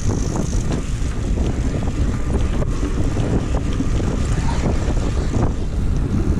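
Wind buffeting the camera's microphone on a moving bicycle, a steady low rumble, with scattered small clicks and knocks from the bike rolling over the pavement.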